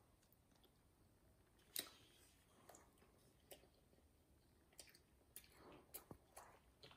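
Near silence, with a few faint, scattered clicks and soft mouth sounds from a child chewing a bite of a crispy chicken sandwich with her mouth closed.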